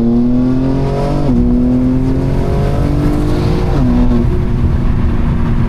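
BMW M4 Competition's twin-turbo straight-six accelerating through the gears: the engine note climbs, drops sharply at an upshift about a second in, climbs again, drops at a second upshift nearly four seconds in, then holds steady.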